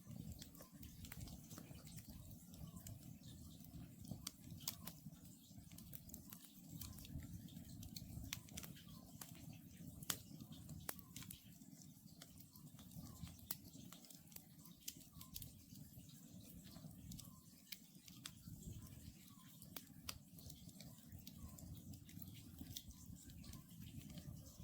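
Wood campfire crackling with irregular sharp pops over a low steady rumble of the flames. An Oriental scops owl's call repeats faintly about once a second behind it.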